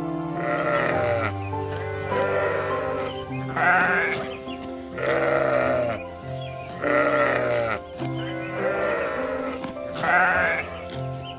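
An animal bleating in a series of quavering calls over steady background music.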